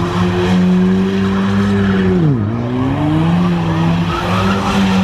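Car engine held at high revs while the car spins its tyres in a skid, the tyres screeching. The revs drop sharply about two seconds in and climb straight back up.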